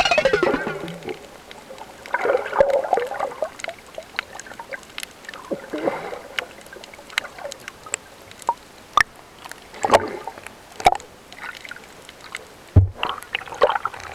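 Water splashing and sloshing around a snorkeling spot, with irregular sharp clicks and knocks.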